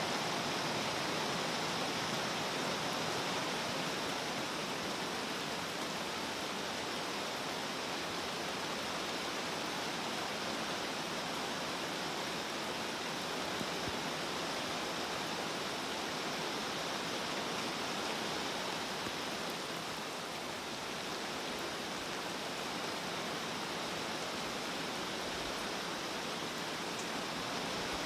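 Steady rain falling on a pond, an even hiss of drops striking the water surface.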